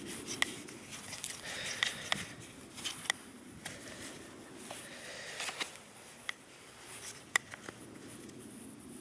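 Paracord being wrapped and pulled tight around a knife sheath: soft rustling of the cord, with about a dozen sharp, irregular clicks and ticks as the sheath is handled.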